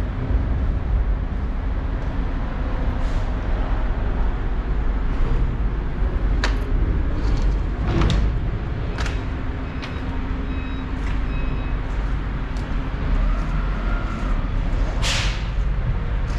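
Low, steady rumble of vehicle and road noise, with a few sharp clicks or knocks and a short hiss about fifteen seconds in.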